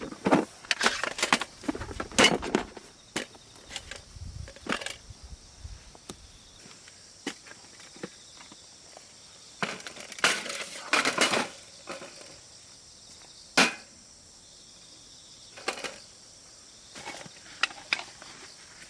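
Irregular rustling, crunching and sharp knocks of someone moving about and handling gear, in uneven clusters with short quiet gaps between them.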